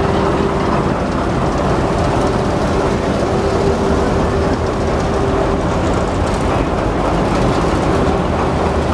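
Diesel-electric locomotive running, a steady heavy rumble with a constant hum over it.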